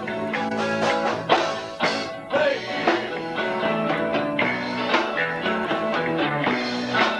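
Live rock trio playing a song: guitar, bass guitar and drums.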